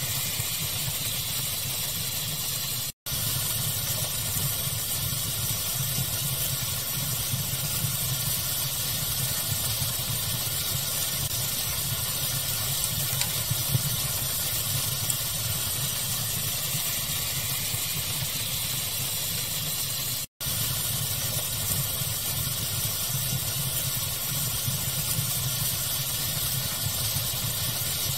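Steady pink-noise hiss layered with a crackling fire. The sound drops out for an instant twice, about three seconds in and again about twenty seconds in.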